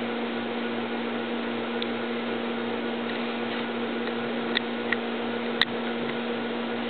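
Steady machine hum with a constant low tone and a background hiss, with a few faint short clicks between about four and a half and five and a half seconds in.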